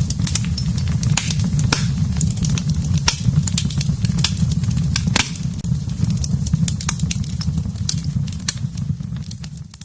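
Wood fire burning in a fireplace: a steady low rumble of flames with frequent sharp crackles and pops from the burning wood.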